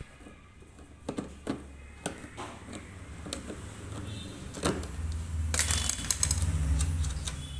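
Scattered metallic clicks and knocks of tools and parts being handled while a front-load washing machine is taken apart. About five seconds in this becomes a dense rattling, with a low rumble under it.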